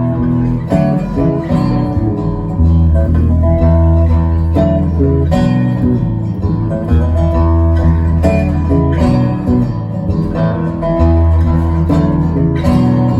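Live band playing an instrumental passage: guitars over sustained bass notes.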